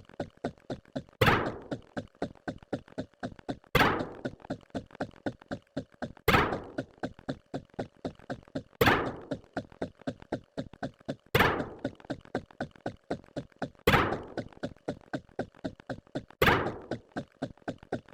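A repeating loop of knocking sounds: a loud thunk about every two and a half seconds, with quicker, lighter clicks at about four a second in between.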